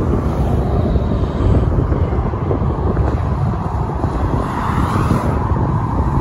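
Steady low rumble of road traffic mixed with wind on the microphone, swelling slightly about five seconds in as a car passes.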